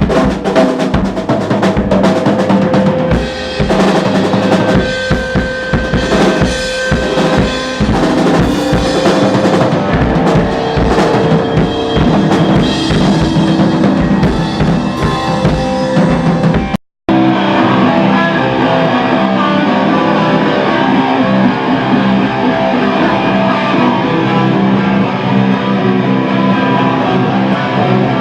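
Rock band rehearsing loudly: a drum kit with kick and snare, and guitar. The music cuts out for a split second about two-thirds of the way through, then a different passage starts.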